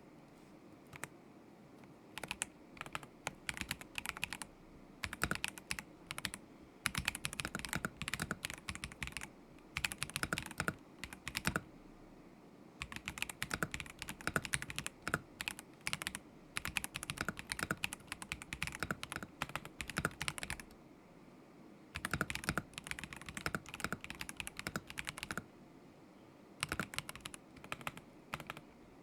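Typing on a KZZI K75 Pro mechanical keyboard with Moment linear switches: quick runs of keystroke clacks in bursts of a few seconds, broken by short pauses.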